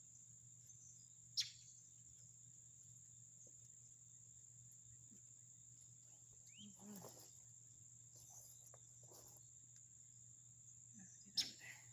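Steady high-pitched trill of crickets, faint, with brief rustling about halfway through and two sharp clicks, one early and one near the end.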